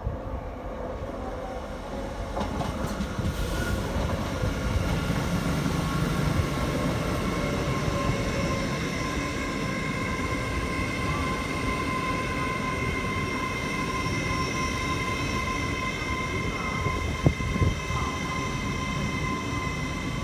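Hull Trains Class 802 bi-mode multiple unit rolling slowly past, its wheels rumbling on the rails under a steady high-pitched squeal. A couple of sharp knocks come about 17 seconds in.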